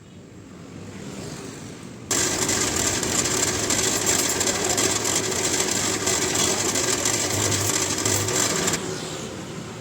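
A small electric power tool running steadily with a hiss, starting abruptly about two seconds in and stopping abruptly near the end.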